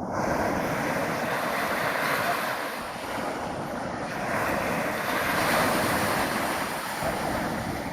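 Sea waves washing ashore in a steady rush that swells and eases, with wind buffeting the microphone.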